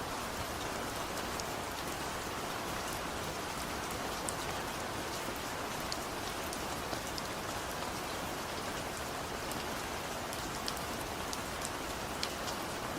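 Steady gentle rain falling, without thunder, with scattered individual drops ticking on a surface.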